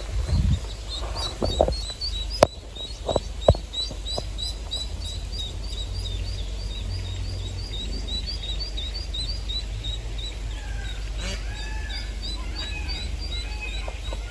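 A small bird chirping over and over, a fast string of short high chirps about three a second, joined near the end by a second bird's lower, arched calls. A steady low rumble and a couple of sharp knocks in the first few seconds lie underneath.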